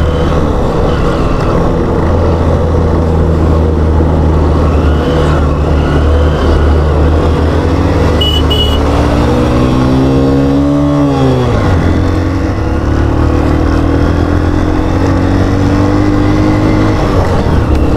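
Motorcycle engine running under way. Its pitch climbs for several seconds as the bike accelerates past a truck, drops sharply about eleven seconds in as it shifts up, then climbs slowly again. A short high beep sounds about eight seconds in.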